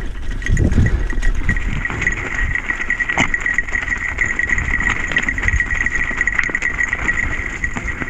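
Mountain bike rolling over a wet trail: a low rumble of tyres and wind on the microphone, with a steady high-pitched, rapidly fluttering buzz and scattered clicks and knocks.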